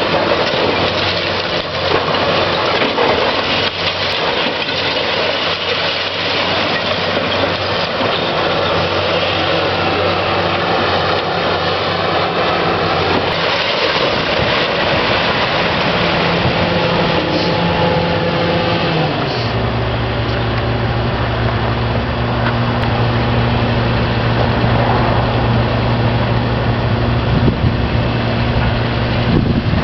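Heavy machinery's diesel engine running steadily with mechanical noise; about two-thirds of the way through the sound changes abruptly to a steadier, deeper engine hum.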